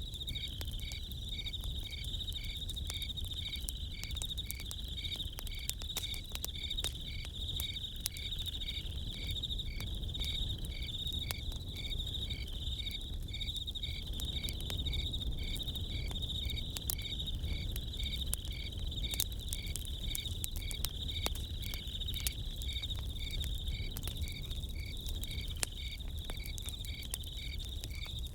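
Crickets chirping in a steady chorus, one of them in an even beat of about three chirps every two seconds, with a campfire crackling in sharp, scattered pops.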